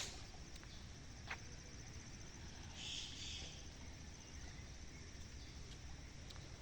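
Insects chirping steadily in a high, rapidly pulsing trill, with a brief louder high burst about three seconds in, over a low rumbling background.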